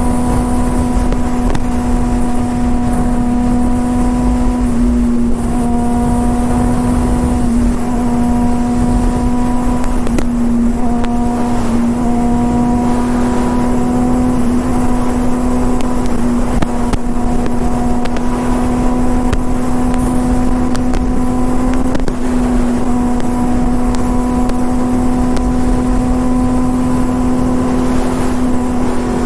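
Honda CBR600RR's inline-four engine running at a steady cruising pitch, with strong wind rumbling on the microphone.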